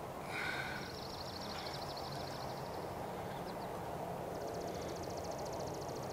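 A songbird's high, rapid trill, sung twice: the first opens with a couple of lower notes and lasts about two and a half seconds, the second starts about four seconds in. A steady low hum runs underneath.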